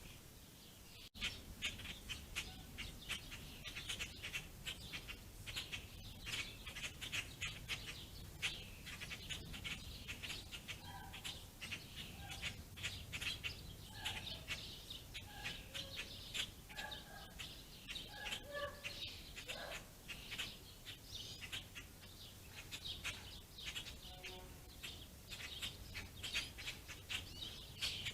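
A flock of small songbirds, among them house sparrows, house finches and pine siskins, chirping busily in many short, overlapping high chirps, with some lower call notes through the middle.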